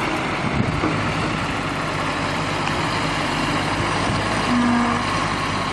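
A heavy vehicle's engine running steadily, with a short steady tone about four and a half seconds in.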